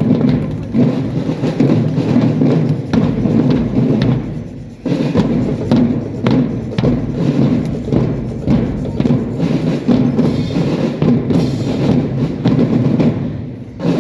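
A marching drum band playing, drums to the fore with a steady beat; the sound dips briefly just before five seconds in, then comes back in at full force.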